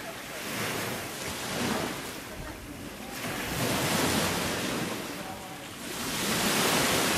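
Ocean surf washing in and out, swelling and easing about every two to three seconds.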